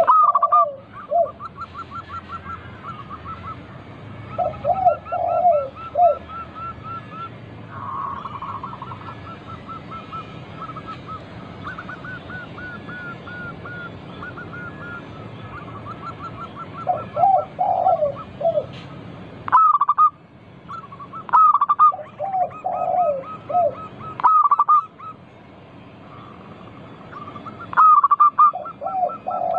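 Zebra doves (perkutut) cooing: short rolling phrases of coos repeat every few seconds, with louder sharp calls in the second half. A fast, steady series of higher chirping notes from other birds runs underneath.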